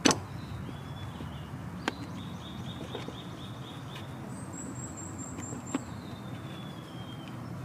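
Wild birds singing, with repeated high trilled phrases, over a steady low background rumble. Three sharp clicks cut through, the loudest right at the start and the others about two and six seconds in.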